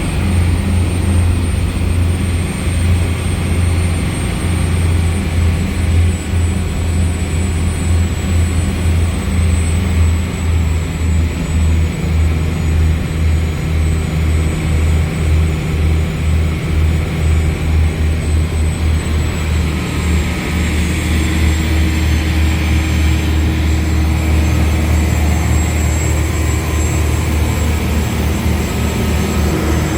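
Twin Mermaid turbo diesel engines of a motor cruiser running steadily under way. The deep drone throbs rapidly throughout, with a thin high whine above it.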